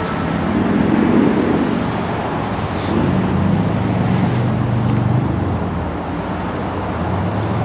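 Motor vehicle engines running, a steady low hum over a rumble of road and outdoor noise.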